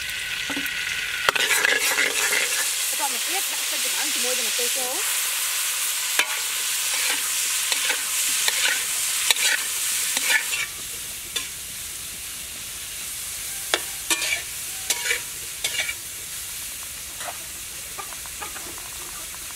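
Hot oil sizzling in a wok as fish sauce is added to chopped aromatics, then mushrooms and red chillies are stir-fried, with a metal spatula scraping and tapping the wok. The sizzle is louder for about the first ten seconds and then softens, and sharp spatula clicks stand out through it.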